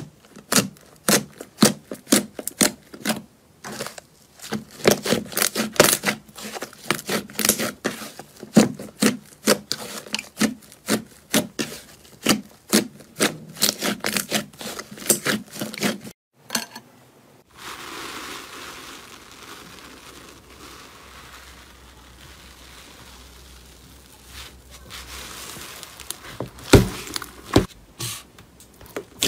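Slime being worked by hand, giving dense, irregular crisp crackling pops. After a brief silence comes a steady soft hiss for several seconds, and the sharp pops return near the end.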